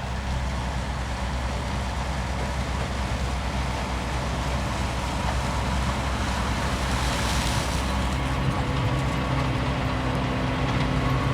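Holmer Terra Dos T4-40 sugar beet harvester's diesel engine running steadily under load, growing slightly louder, with a brief rush of noise about seven seconds in.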